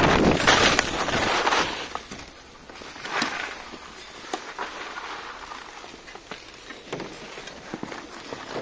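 Wind rushing over the microphone while skiing, dying away about two seconds in. Faint scattered clicks and crunches follow.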